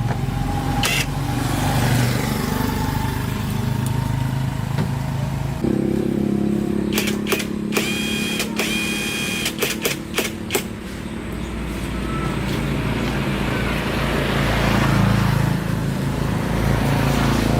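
A motor vehicle engine running steadily, with a quick run of sharp clicks and two short beeps about halfway through.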